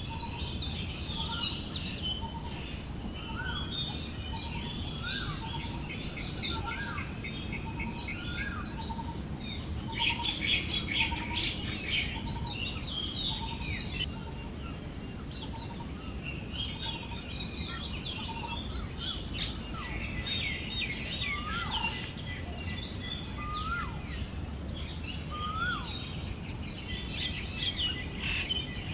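Forest birds chirping over a steady high insect drone and a soft low rush of wind. One bird repeats a short low note about every two-thirds of a second through the first half, and a dense flurry of chirps comes about ten seconds in.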